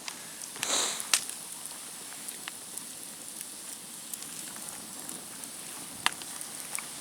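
Small wood campfire crackling: a steady faint hiss with a few sharp, scattered pops, the loudest about a second in.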